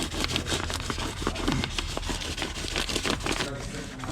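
Irregular rubbing, scraping and crinkling of pipe insulation material being handled and wrapped, over a steady low hum.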